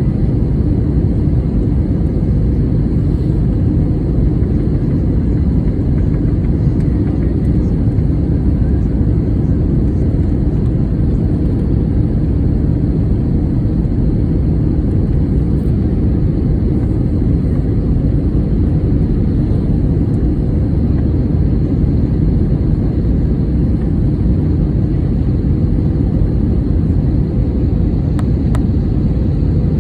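Airliner cabin noise in flight: a steady, loud, low rumble of engines and airflow that holds without change.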